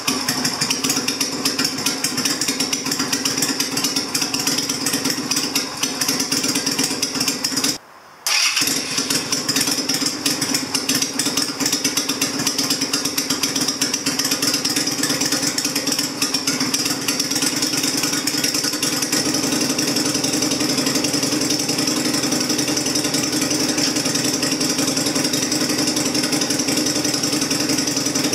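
2000 Yamaha Virago XV250's air-cooled V-twin running steadily through a freshly fitted aftermarket exhaust, its carburettor rejetted. The sound cuts out briefly about eight seconds in.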